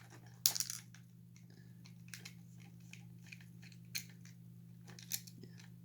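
Small clicks and scrapes of a screwdriver and plastic parts as screws are taken out of an animatronic toy's plastic hip gearbox. The sharpest click comes about half a second in, with a few lighter ones after, over a steady low hum.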